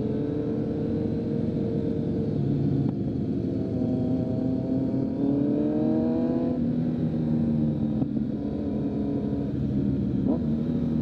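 2023 Kawasaki Z900's inline-four engine through a full Leo Vince exhaust, running steadily under way. About halfway through its note climbs as the bike accelerates, then drops sharply.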